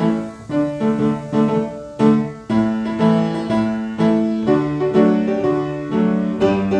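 Piano playing a slow piece in chords and melody notes. A new note or chord is struck about every half second and rings out as it fades.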